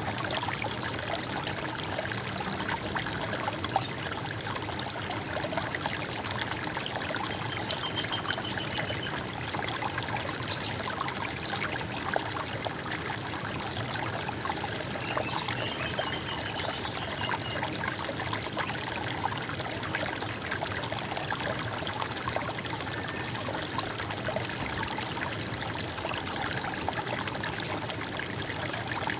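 Steady running and gurgling water, as of a small stream, with a few faint bird trills in the background, one about a quarter of the way in and another about halfway.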